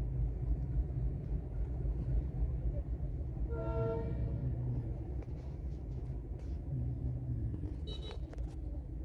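Passenger train rumbling past a level crossing, heard from inside a stopped vehicle. A horn toots briefly about three and a half seconds in.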